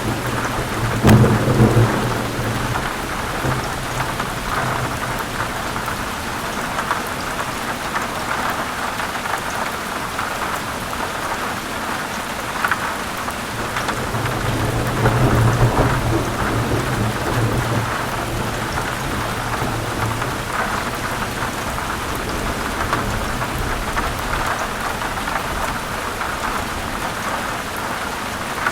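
Steady heavy rain with thunder. Low rumbles come about a second in and again, louder, from about 14 to 17 seconds.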